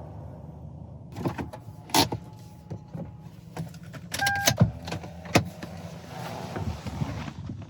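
Clicks and knocks from a car being handled, with a brief electronic beep about four seconds in.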